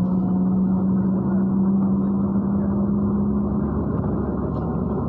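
Inside a MAZ-103 city bus under way: the diesel engine runs and the road rumbles. A steady engine drone fades out about three and a half seconds in.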